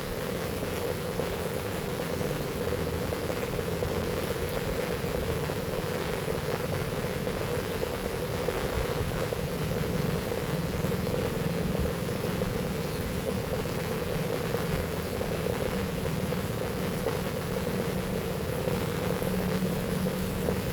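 Heavy rain falling steadily, an even, unbroken rush.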